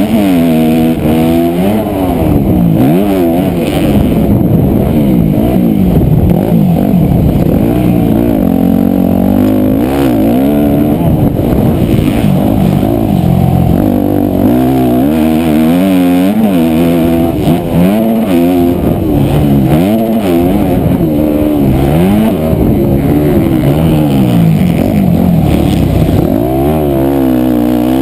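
Motocross dirt bike engine revving hard and backing off over and over as it is ridden around the track, its pitch climbing and dropping every second or two.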